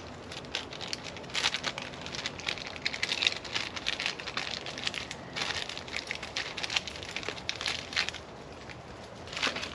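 Packaging crinkling and rustling as it is handled and opened, a dense run of irregular crackles that eases off near the end, with a brief rustle just before the end.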